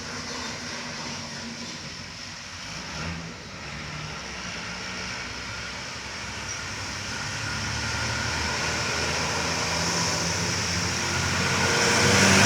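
Truck engine running under load, growing steadily louder over the second half as the truck approaches.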